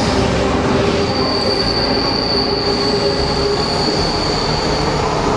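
Train running on rails with a steady rumble, and a thin, high wheel squeal from about a second in until near the end.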